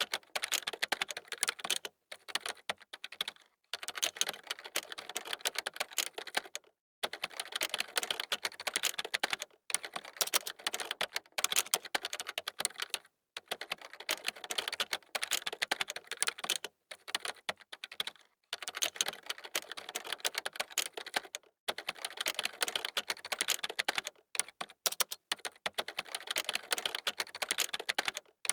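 Computer keyboard being typed on fast, dense rapid key clicks in runs of a few seconds broken by short pauses.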